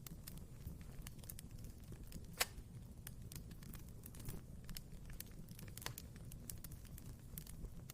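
Wood fire in a fireplace crackling, with irregular small pops and one sharp, louder pop about two and a half seconds in, over a low steady rumble.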